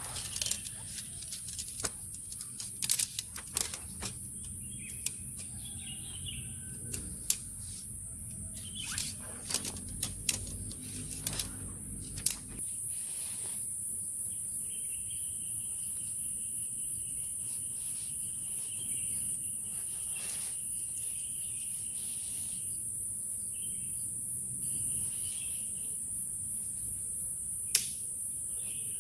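Forest ambience with a steady high insect chorus, scattered sharp clicks and knocks over the first dozen seconds, then a steadier background after an abrupt change.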